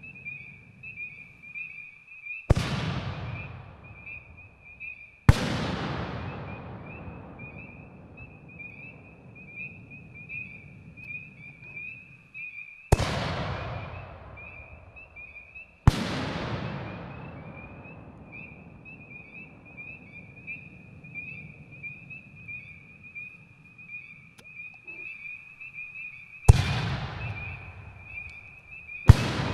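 Three 5-inch canister shells fired one after another from a reloadable mortar tube. Each launch thump is followed about three seconds later by a sharp burst, and every bang trails off in a long rolling echo. A steady high chirping chorus runs underneath.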